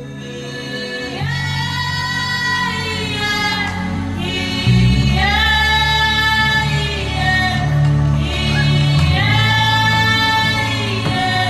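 A voice humming a slow worship melody in three long, held phrases that glide gently in pitch, over a low sustained accompaniment that swells about halfway through.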